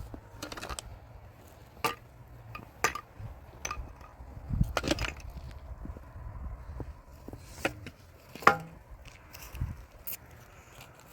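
A series of irregular sharp knocks and taps, about nine or ten, unevenly spaced, with the loudest near the middle and two-thirds of the way through.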